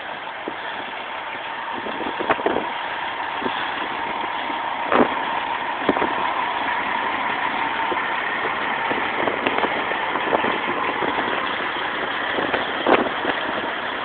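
Heavy American diesel trucks running as they pull away, buried under strong wind buffeting the microphone, with a few sharp knocks scattered through.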